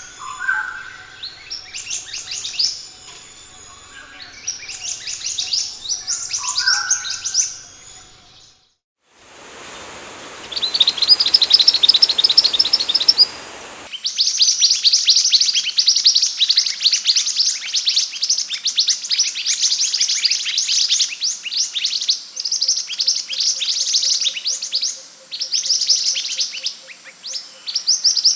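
Scarlet minivet (sepah hutan) song: rapid runs of thin, high chirps. A short break comes about nine seconds in, then a fast trill over hiss, then dense continuous chirping from about halfway through.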